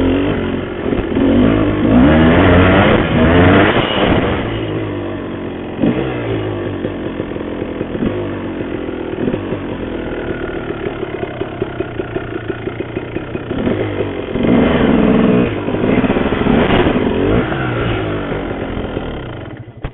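Honda CR250R two-stroke dirt bike engine under way, its pitch rising and falling with the throttle. It settles into a low, even pulsing run for a few seconds in the middle, then revs up again before cutting off suddenly at the end.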